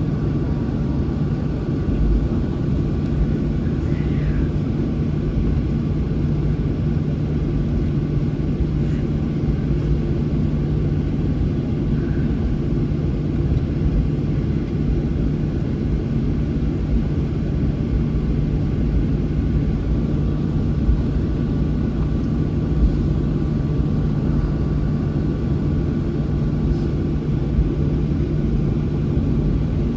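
Boeing 737's jet engines running at taxi power, heard inside the passenger cabin as a steady hum with a low drone and a fainter higher tone.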